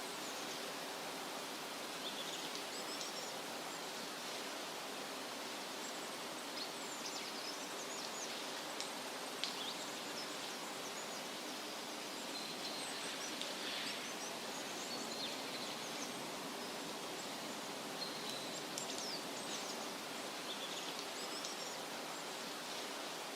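Outdoor ambience: a steady background hiss with faint, scattered bird chirps coming and going throughout.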